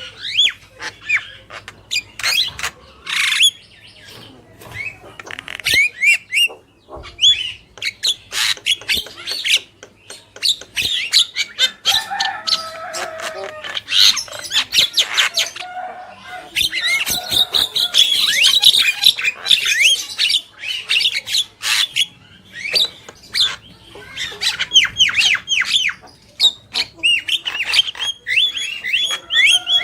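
Javan mynas calling busily: rapid runs of short falling whistled notes mixed with harsh squawks and clicking chatter, thickest in the middle stretch.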